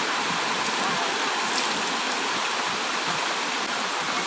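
Heavy rain pouring down in a steady, even rush of falling water.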